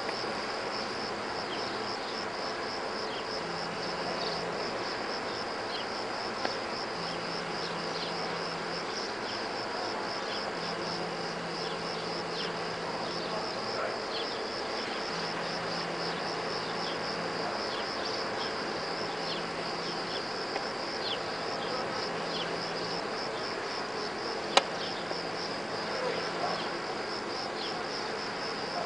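A steady, rapidly pulsing chorus of insects chirping, with a low hum that comes and goes every few seconds underneath. A single sharp click stands out near the end.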